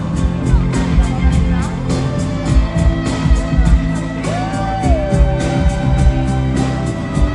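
Live pop band music with a steady drum beat. About four seconds in, a single held note rises, holds, then drops to a lower pitch for about a second.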